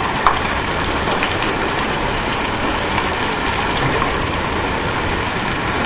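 Heavy hail of up to quarter-size stones pelting down, a steady hiss of impacts with a few sharper clicks from single hailstones striking.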